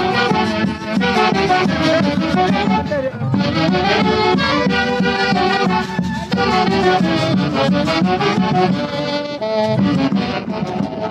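A festival orchestra playing traditional Andean dance music: reed and brass wind instruments carry a melody over a steady beat.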